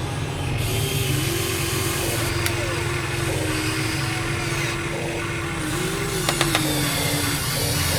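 Huina 1:14-scale RC construction machine running with a diesel engine rumble and a whine that wavers in pitch, with a few sharp clicks about six seconds in.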